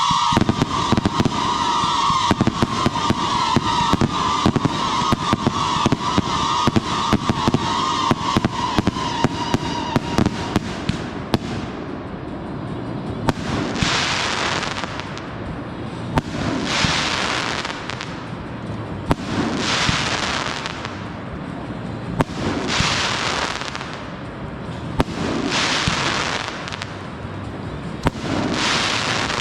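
Consumer fireworks going off: for about the first ten seconds a dense run of rapid crackling pops over a high whistling note, then a series of hissing bursts about every three seconds, with sharp cracks among them.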